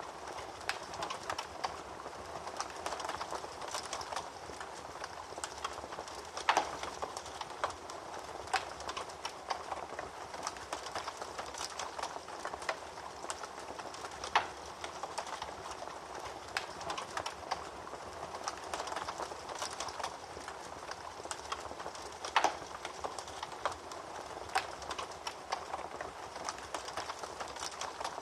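Wood fire crackling in a fireplace: a steady hiss of small crackles with a few louder pops.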